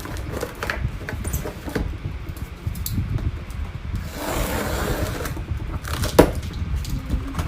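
Handling of a cardboard product box: scattered clicks and light knocks, a stretch of scraping or rustling about four seconds in, and one sharp knock near the end.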